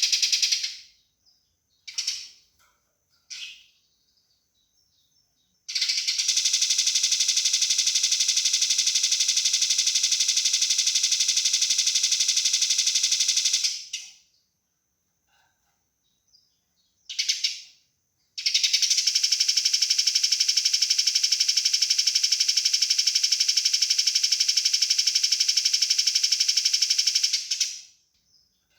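Eurasian tree sparrows giving aggressive fighting calls: short bursts of chirping, then two long runs of rapid, tightly packed rattling notes of about eight and nine seconds each.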